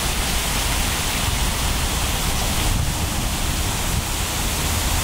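Water cascading down a man-made fountain waterfall: a steady rushing noise.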